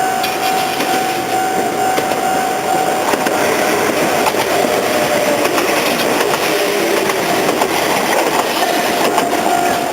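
Enoden electric train (a 1500-series set coupled to a 1000-series set) passing over a level crossing, wheels clacking over the rail joints for several seconds in the middle. The crossing's warning bell rings steadily before and after and is drowned out while the train goes by.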